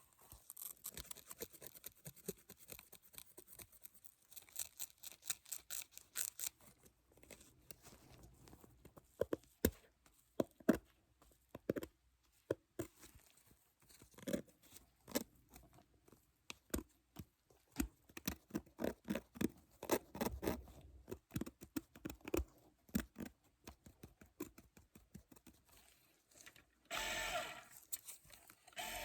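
Close-miked ASMR prop handling for a dentist roleplay: irregular taps, clicks and crinkling. Near the end a steady dental-drill sound starts briefly, then stops.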